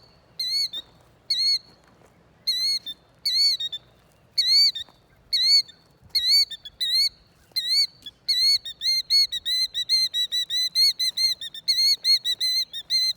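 Killdeer calling in alarm, a string of shrill repeated calls, spaced at first and quickening into a rapid near-continuous series after about eight seconds. It is the agitated calling of a nesting bird disturbed near its eggs.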